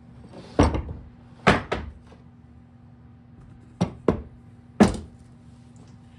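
Sharp metal clunks and knocks, six of them in uneven groups, as a small dirt bike's engine is worked loose and separated from its frame.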